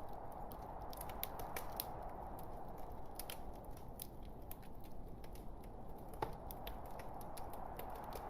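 Log fire burning in a fireplace: irregular crackles and pops over a steady low hiss, with one louder pop about six seconds in.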